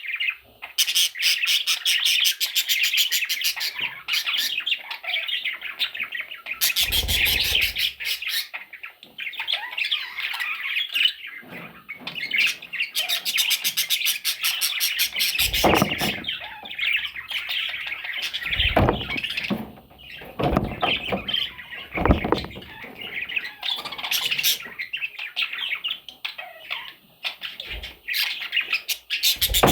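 Parrot chicks chattering and squawking continuously in fast, raspy, repeated calls, with a few dull knocks or bumps scattered through.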